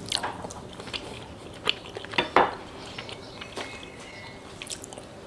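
A person chewing a mouthful of cheese and tomato sandwich: soft mouth sounds with a few short, irregular crunches, the strongest a little over two seconds in.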